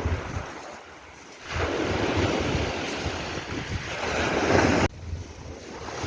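Sea waves washing in, with wind buffeting the microphone. The rushing noise dies down about a second in, swells again to a peak, then drops off abruptly about five seconds in.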